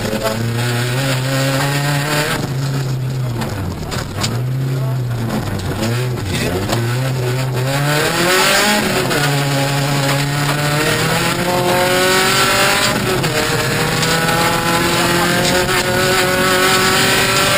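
Rally car engine heard from inside the cabin, on and off the throttle several times through a corner, then pulling hard with the pitch climbing and dropping back at each upshift.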